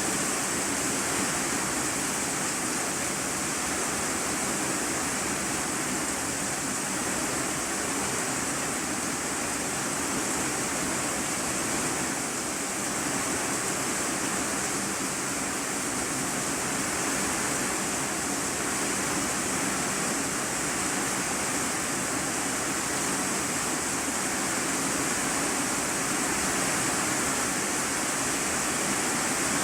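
Steady rain falling on an iron-sheet roof, heard from the room beneath: an even, unbroken hiss with no single drops standing out.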